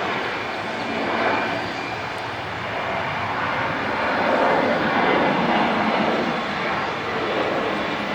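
Jet airliner engines making a steady rushing noise that swells and eases slightly.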